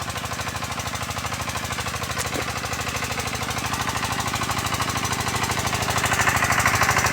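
Diesel engine of a water pump running with a fast, even chugging beat, growing louder near the end.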